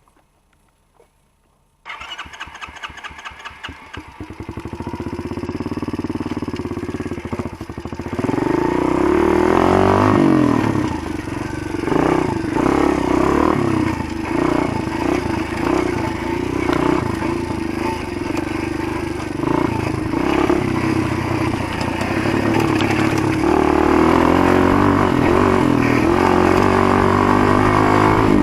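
Motoland GF125 E pit bike's 125 cc single-cylinder four-stroke engine starting about two seconds in and idling. From about eight seconds in it gets louder, its pitch rising and falling with the throttle as the bike rides off.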